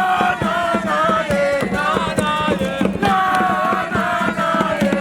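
A group of voices chanting a song together in unison, over a quick, steady percussive beat.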